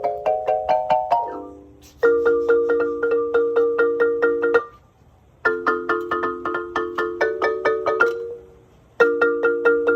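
Marimba played with mallets: rapid repeated strikes on chords, about four to five a second, in short phrases broken by brief pauses, the chords shifting in pitch from phrase to phrase.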